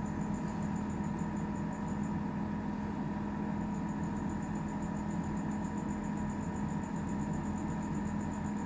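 Compressor of a Kings 75-litre dual-zone fridge running steadily with a low, even hum, cycling on while the fridge holds one side at fridge and one side at freezer temperature.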